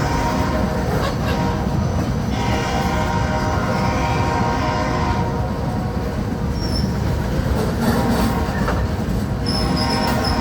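Freight train with BNSF diesel locomotives running past: a steady heavy rumble with sustained tones throughout, and brief high-pitched wheel squeals near the end.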